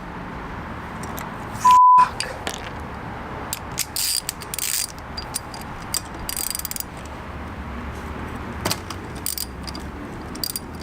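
A short, loud single-pitch censor bleep about two seconds in. Around it come scattered metallic clinks and rattles of tools and motorcycle parts being handled, with a quick run of ticks partway through.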